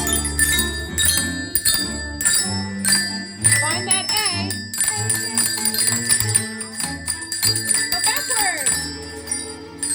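A children's xylophone ensemble plays a spooky Halloween tune, struck ringing notes over sustained low notes. A wavering pitch comes in about four seconds in, and a falling glide near the end.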